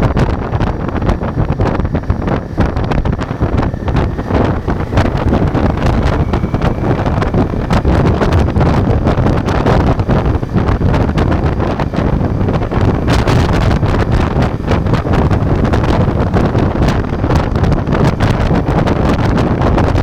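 Ducati Multistrada V4's V4 engine running under way, largely buried under heavy wind buffeting on the microphone.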